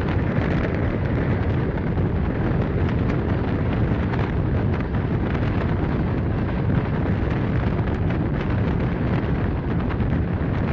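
Steady, loud rumble of a moving passenger train: wheels running on the rails.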